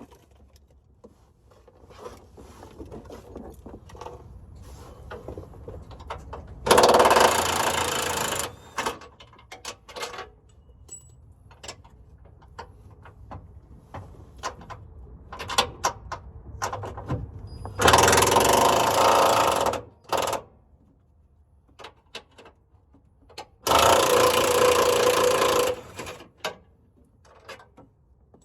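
Impact wrench run in three bursts of about two seconds each, hammering on bolts while a transmission is being removed, with light clinks and tool handling between.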